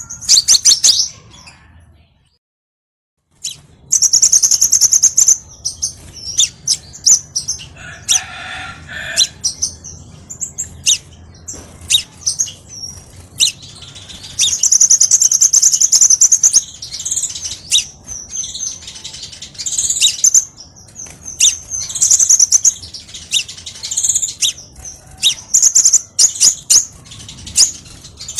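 Crimson sunbird (kolibri sepah raja) singing: rapid, loud, high-pitched chirps and trills in quick strings, with a brief total break about two seconds in.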